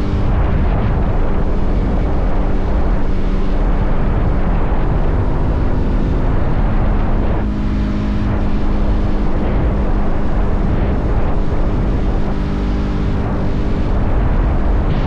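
Motorcycle engine running at road speed under a heavy rush of wind on the microphone. The engine note shifts in pitch a few times.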